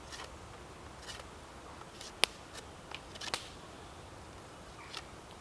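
A few sharp, isolated clicks and ticks over a low steady background. The two loudest come about two and three seconds in.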